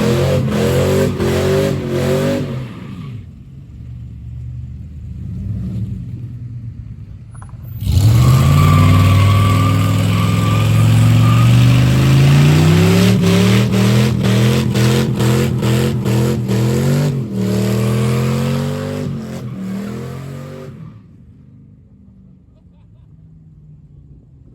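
A truck engine revving hard for a burnout, its pitch swinging up and down with tire squeal over it. The revving eases off after about three seconds. About eight seconds in it comes back loud for some thirteen seconds, with repeated sharp cracks, then cuts off suddenly.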